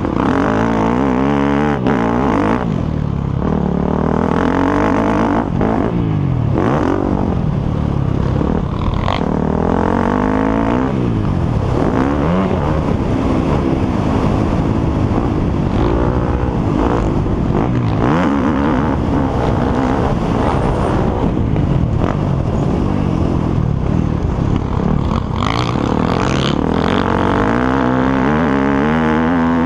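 Several motocross bikes' engines running on the track, repeatedly revving up and dropping back as they accelerate and brake, with overlapping engine notes that rise and fall in pitch.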